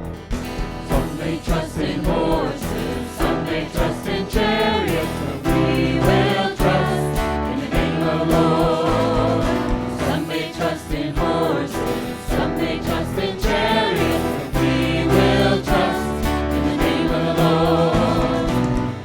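Church worship music: a group of voices singing a song over a band's instruments.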